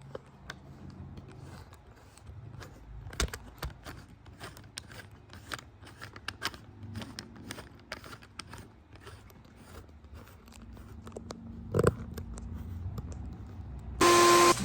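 Scattered scrapes, clicks and knocks of hands-on work on a garage door, over a low steady hum. Near the end comes a very loud, short blast carrying a steady tone.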